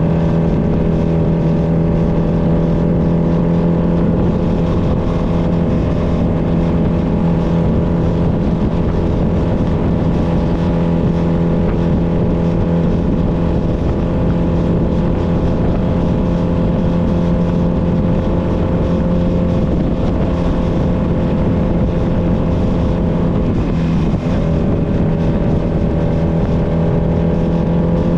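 Honda Nighthawk 250's air-cooled parallel-twin engine running at a steady, constant speed while riding, over a low rumble of wind and road noise. The engine note wavers briefly about 24 seconds in.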